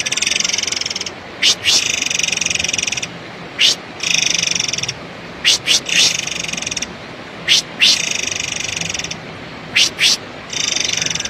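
Murai air bird calling: buzzy, rapidly pulsed rasping phrases about a second long repeat every couple of seconds. Between them come short, sharp high-pitched notes, singly or in pairs.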